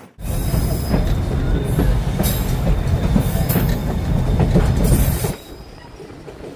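Passenger train of the White Pass railroad running on the track: the wheels rumble and clack with high squeals. The sound starts abruptly and drops away sharply about five seconds in.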